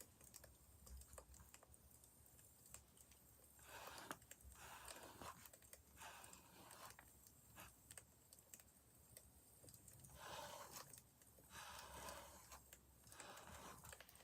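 Faint wood fire crackling, with scattered small pops.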